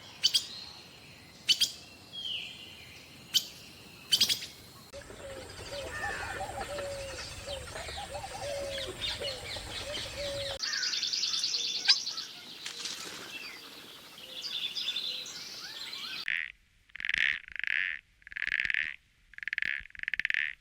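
Animal calls in a string of short clips: sharp chirps and clicks, then warbling calls over a low hum, then short calls repeated about once a second near the end.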